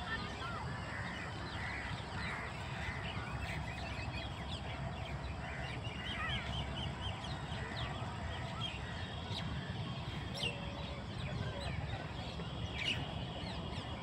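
Several birds calling and chirping, many short calls overlapping, over a steady low rumble.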